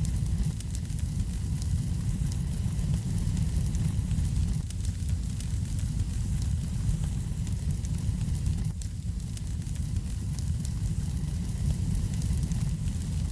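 Wood fire burning in a fireplace: a steady low rumble of the flames with many small, quick crackles and pops throughout.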